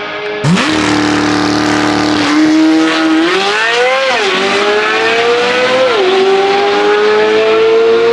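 Supercar engines at full throttle on a drag run between a Corvette Z06 and a Ferrari. The sound comes in suddenly and loudly about half a second in. The engine pitch then climbs through the gears, with sharp drops at upshifts about four and six seconds in.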